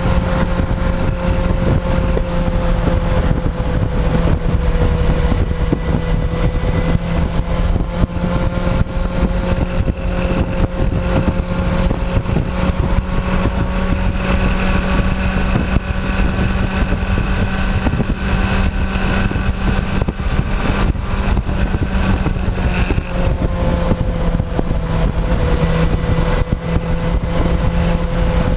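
Motorcycle engine running at a near-steady cruise, picked up by a camera on the fuel tank, with wind and road noise. The engine pitch holds almost level, dipping only slightly a few times.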